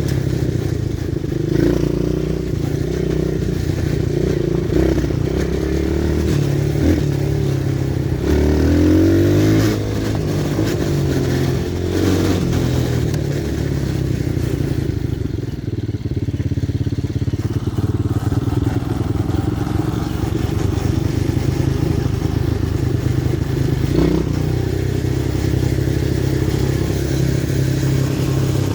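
Pit bike engine running as the bike is ridden, with the revs climbing around eight to nine seconds in and otherwise holding fairly steady.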